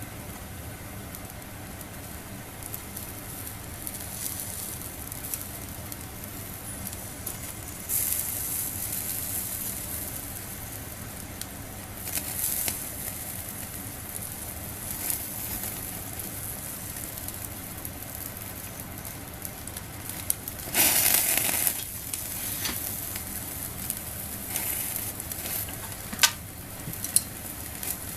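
Food sizzling on a wire grill over a small fire pit. The sizzling is steady, with louder surges about 8 s in and again around 21 s, and a few sharp crackles near the end.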